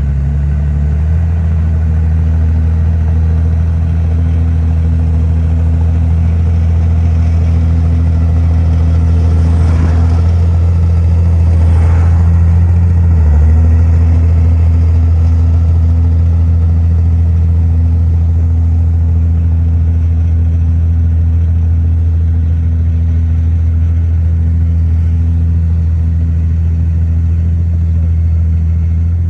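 Heavy diesel engine of earthmoving machinery running steadily at a low, even pitch, easing slightly about a second in and again around thirteen seconds in. A brief clatter rises over it at about ten to twelve seconds.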